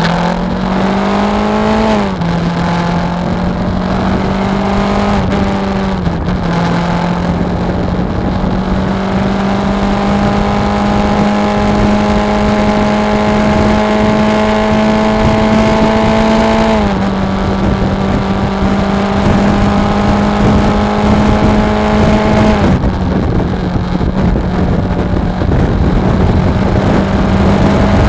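Suzuki V-Strom 250's parallel-twin engine running under way. Its note climbs slowly and drops sharply four times, over steady wind rush.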